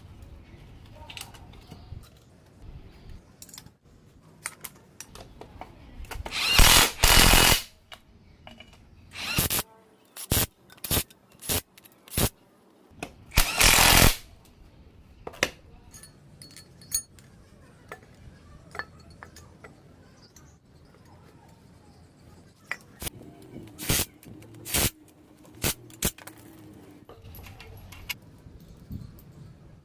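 Several short bursts of a power or air tool during engine workshop work, the longest about a second each, with scattered metallic clicks between.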